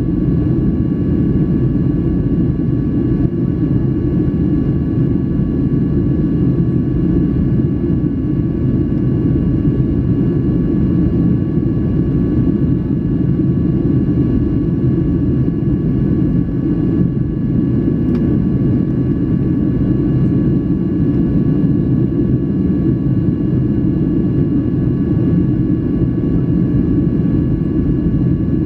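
Steady in-flight cabin noise of a Boeing 737-800 airliner: a dense, even rumble of the jet engines and airflow, with a few faint steady whining tones above it.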